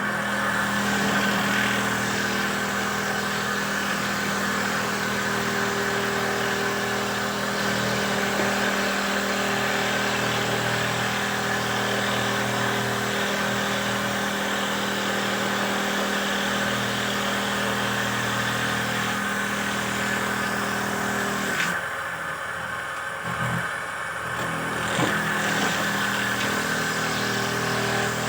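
Handmade dowel-making machine running with a steady motor hum and broad whirring noise. About 22 seconds in the hum drops away for a few seconds, with a few knocks, then picks up again.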